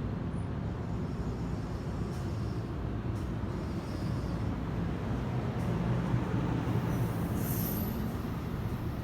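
Passenger train running on the rails, a steady rumble of wheels on track, with a brief high squeal about seven and a half seconds in.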